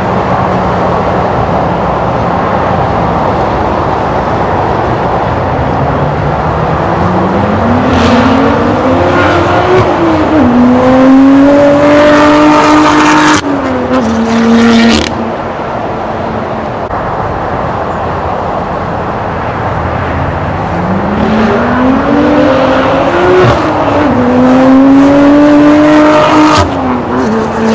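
S55 twin-turbo inline-six through an Active Autowerke Signature exhaust, cruising and then accelerating hard twice. The exhaust note climbs in pitch and drops back at each gear change, with a few sharp cracks in the middle of the first pull and near the end of the second.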